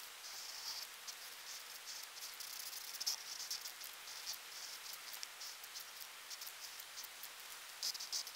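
Sharpie marker squeaking and scratching across paper in short, irregular strokes as it traces over pencil lines.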